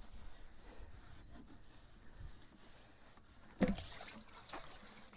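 Water sloshing and trickling inside a fuel tank being rinsed out, with one louder splash about three and a half seconds in.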